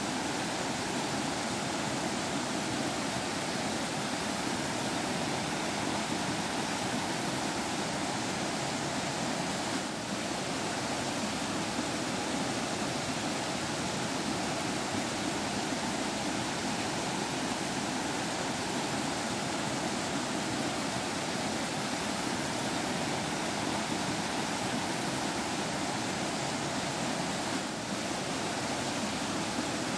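Stream water flowing and trickling in a steady, unbroken rush.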